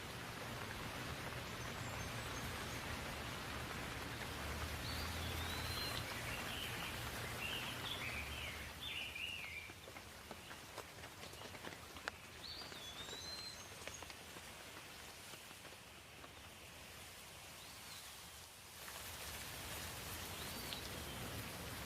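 Steady rain falling, with drops ticking now and then. A bird calls several times with short rising-then-falling whistles, and there is a brief run of chirping about seven to nine seconds in.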